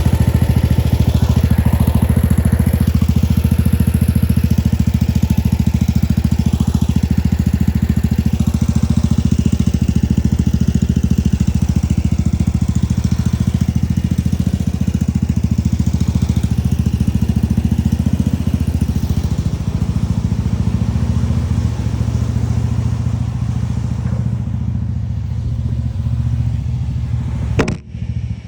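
Tractor engine running steadily at idle, an even low drone that does not rise or fall, with a brief dip in loudness near the end.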